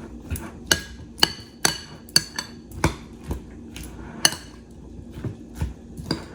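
A utensil clinking and tapping against a bowl as a dressing is stirred: irregular sharp knocks about twice a second, some ringing briefly.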